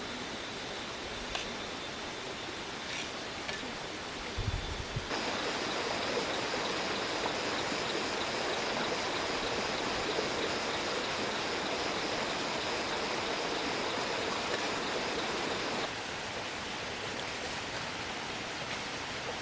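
Steady rushing outdoor noise, like running water, that changes abruptly about five seconds in and again near the end, with a brief low thump just before the first change.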